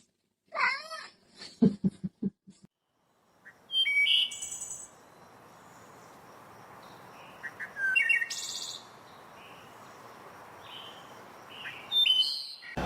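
A cat meowing, followed by a few short calls. Then a steady hiss with short, high chirps every second or two.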